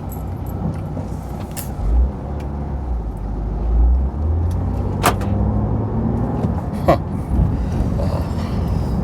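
Car cabin noise: engine and road rumble as the car drives, with a low thump about two seconds in and two sharp clicks later on.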